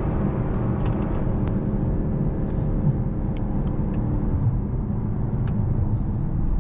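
Mercedes-AMG S63 sedan driving at steady speed: road rumble under a steady engine drone whose pitch does not change. The drone fades out about four seconds in, leaving the road rumble.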